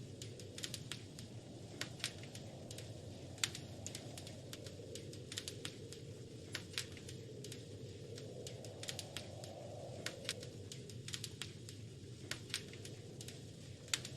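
Wood fire crackling in a fireplace: irregular sharp snaps and pops over a steady low rumble of burning logs.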